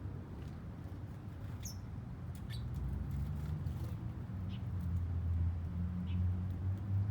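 Several short, high bird chirps, spaced a second or two apart, over a low rumble that grows louder in the second half.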